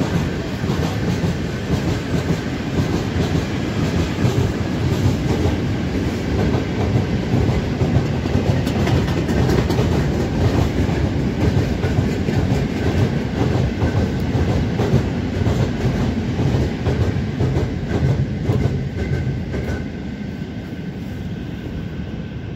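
Long mixed freight train of open gondola wagons and covered hopper wagons rolling steadily past, wheels clattering over the rail joints, with a faint steady high tone above the rumble. The noise eases a little near the end as the last wagons go by.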